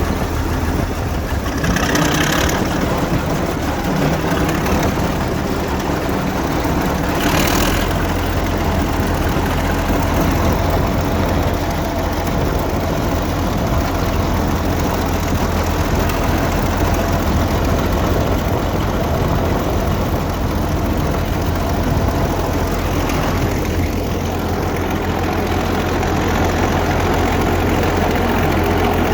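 Caterpillar Diesel 75 crawler tractor's diesel engine running steadily while pulling a six-furrow plough. Two brief louder noises come about two and seven seconds in.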